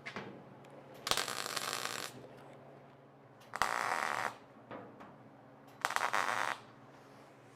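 Three short bursts of shop-tool noise, each about a second long and stopping abruptly, from metalwork on the sheet-steel roof panels of a chopped 1940–41 Chevy body.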